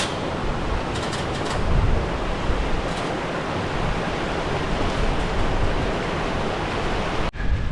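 Steady rushing of flowing stream water, with a low rumble underneath; it cuts off suddenly near the end.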